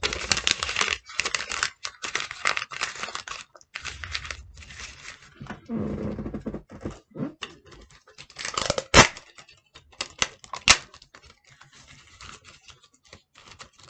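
Paper being handled, with rustling and tearing strokes, busiest in the first few seconds, as paper ears for a puppet are worked on. Two sharp clicks come about nine and eleven seconds in, the first the loudest sound.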